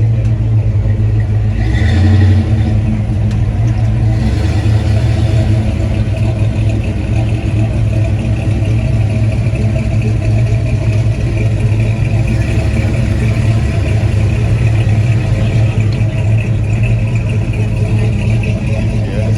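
Car engine running steadily at low revs close by, with a brief louder swell about two seconds in.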